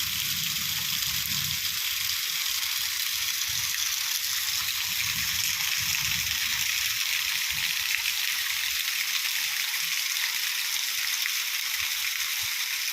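Rain falling steadily, an even hiss, with faint low rumbles coming and going.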